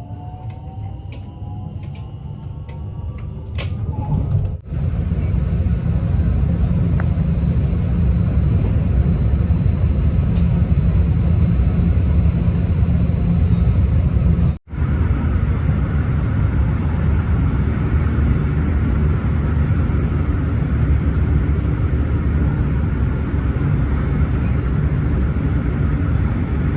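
Steady low rumble of a train running, broken twice by sudden brief cut-outs.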